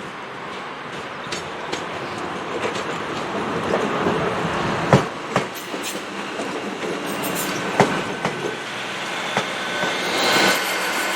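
A train running along the track and getting louder, its wheels clicking over the rail joints, with a thin high squeal from the wheels setting in during the second half.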